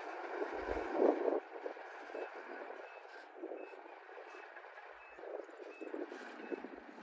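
Komatsu D58E bulldozer's diesel engine running, with a reversing alarm beeping steadily, about three beeps every two seconds. The engine noise surges louder about a second in.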